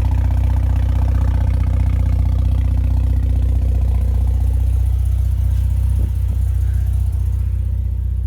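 Car engine running with a deep, steady low drone that sounds like a tractor. It eases slightly about six seconds in.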